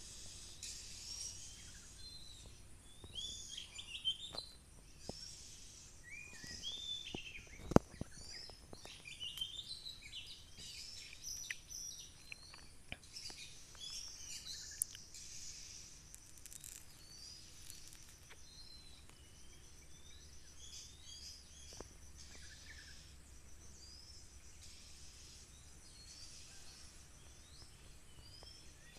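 Oriental magpie-robin song, a busy run of short whistles and chirps, with one sharp loud click about eight seconds in.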